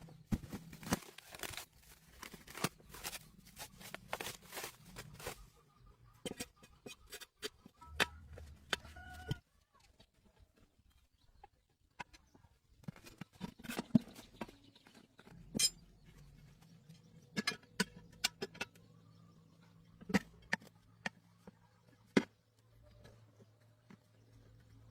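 Irregular clicks and knocks, close together for the first five seconds, then scattered, over a faint low hum.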